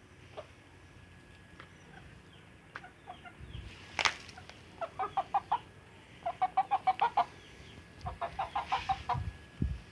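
Chickens clucking in three quick runs of short, even notes, the longest near the middle. A single sharp click about four seconds in.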